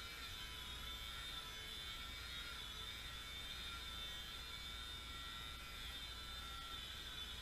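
UMX AS3Xtra micro RC aerobatic plane's brushless electric motor and propeller, a steady high-pitched buzz whose pitch shifts slightly with throttle as it flies.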